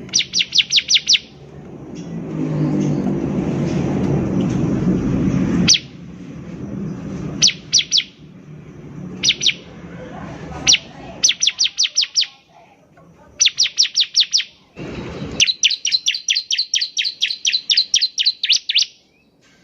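Bar-winged prinia (ciblek) singing in bursts of fast, high, evenly repeated chirps, ending in a long rapid run of notes. In the first few seconds a low noise builds up behind the song and cuts off suddenly, and a short low burst comes about 15 seconds in.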